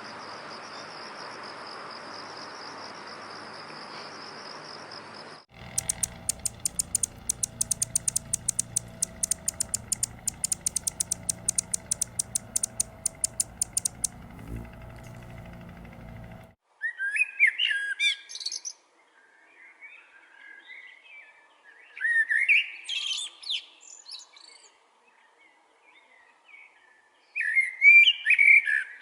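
A steady high-pitched insect drone, cricket-like, that cuts off after about five seconds. Then comes a rapid run of sharp clicks, about five a second, over a low hum, for roughly ten seconds. After that a songbird sings three short chirping phrases a few seconds apart.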